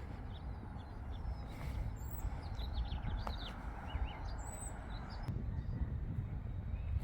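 Small birds chirping: a cluster of short, high chirps about two to four seconds in, a few more near the middle, over a steady low outdoor rumble.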